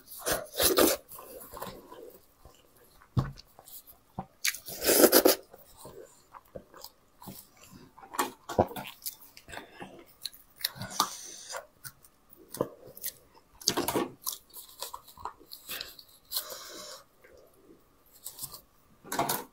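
Close-miked eating of braised sheep's head: chewing and biting the meat, with gloved hands pulling it apart and kitchen scissors cutting into it, in irregular bursts.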